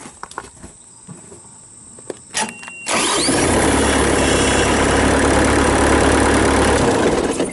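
A few knocks and a short high beep, then about three seconds in the Bobcat 7753 skid steer's Kubota V2203 four-cylinder diesel cranks, catches and runs steadily and loud; the sound cuts off near the end.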